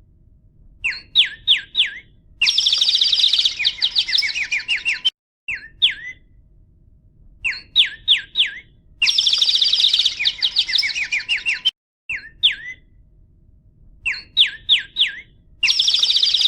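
Songbird song, the same phrase three times over: a few quick down-slurred whistled notes, then a fast, high trill lasting a couple of seconds.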